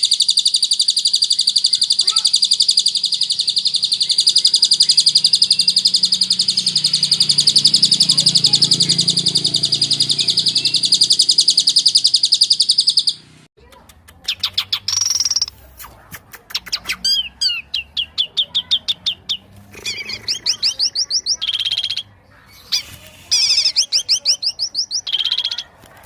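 Murai songbird singing. It holds a long, even, very rapid high trill for about thirteen seconds, then after a sudden break gives a string of short, varied chirps and trills with pauses between them.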